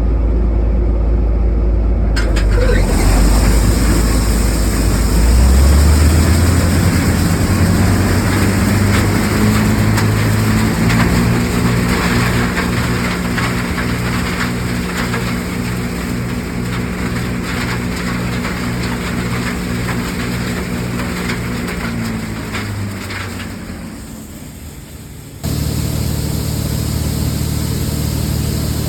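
John Deere 6600 combine running in the field, its engine a steady drone with machinery noise over it. The pitch climbs a few seconds in, holds steady, then fades, and the sound changes abruptly near the end.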